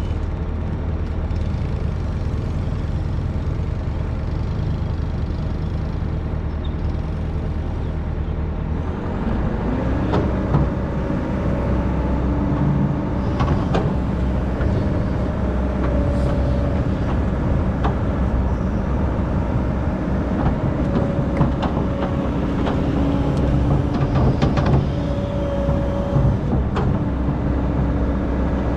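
Hydraulic excavator's diesel engine running steadily, then picking up about nine seconds in as the machine works. After that, whining tones come and go and sharp metallic knocks are scattered through the rest.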